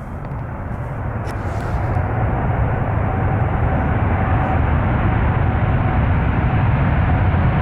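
Twin GE90 jet engines of a Boeing 777-200LR on landing, spooling up into reverse thrust: a loud, steady jet noise that builds over the first couple of seconds and then holds, with a faint whine running through it.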